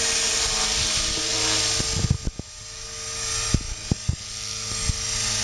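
Electric radio-controlled model helicopter flying, its motor and rotor making a steady whine. The sound drops about two seconds in and then gradually grows louder again, with a few light clicks.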